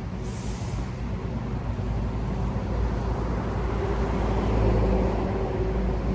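A motor vehicle's engine running close by: a steady low rumble that grows louder about four to five seconds in, then eases off.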